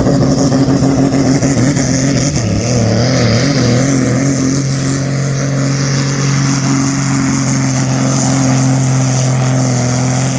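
Turbocharged pulling tractor's engine running at high, steady revs under heavy load as it drags the weight-transfer sled down the track. The pitch wavers briefly a few seconds in, then holds level.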